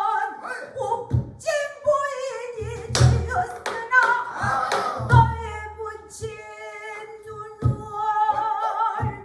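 A pansori singer holding a long, wavering, ornamented sung line, accompanied by a buk barrel drum: five deep drum beats and sharp stick clicks on the drum's wooden shell, spaced irregularly.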